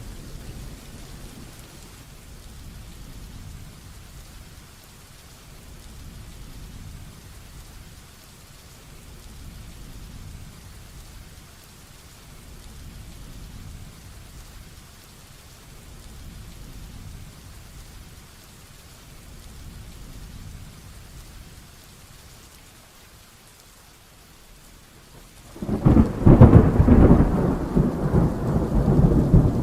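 Heavy rain falling steadily under soft, rolling low thunder that swells and fades every few seconds. Near the end a loud, close thunderclap breaks and keeps rumbling.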